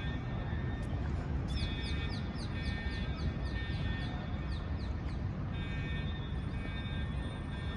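A bird calling a quick run of short, downward-sweeping high notes, about four a second, for a few seconds in the middle, over a steady low outdoor rumble.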